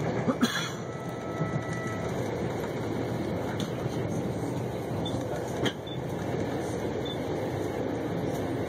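Passenger train's steady rolling noise heard inside the carriage as it runs along the track, with two sharp knocks: one near the start and one a little past halfway.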